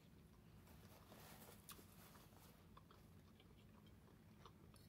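Faint chewing of a king crab and shrimp egg roll: soft crackly mouth sounds and small clicks, busiest between about one and two and a half seconds in.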